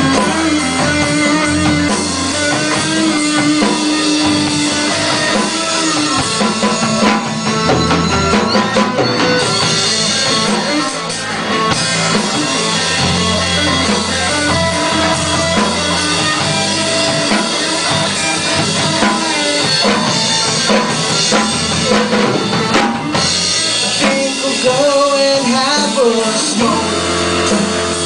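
Live rock band playing: electric guitar, bass and drum kit in a loud, steady groove.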